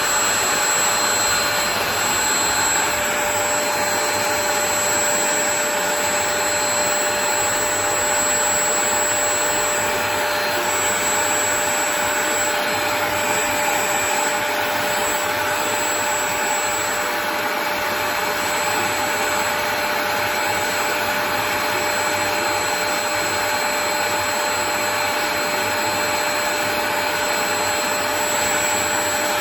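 Portable upholstery spot-cleaner's vacuum motor running steadily with a constant whine.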